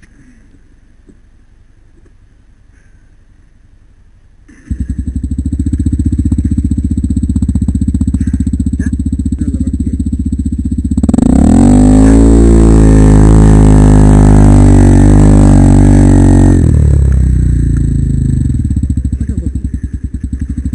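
A single-cylinder four-stroke trail motorcycle engine comes in suddenly about four seconds in and runs steadily. It is revved up and down for several seconds, then settles back to idle.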